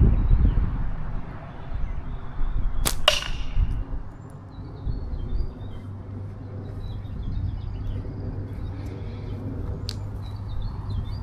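Steel-shot slingshot with flat rubber bands fired: a sharp snap of the bands on release about three seconds in, followed almost at once by a ringing hit on the target. A second sharp click comes near the end, and birds chirp faintly in the background.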